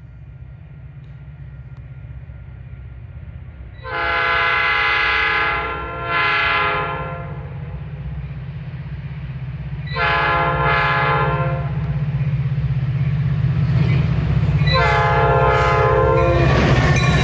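An approaching train sounds its horn in four chords: a long one, a short one, then two more long ones. Under the horn a low engine rumble grows steadily louder, and near the end loud wheel and rail noise rises as the train arrives.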